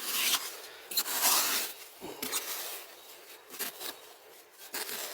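Scraping and rustling from digging into soil, in several short bursts with pauses between.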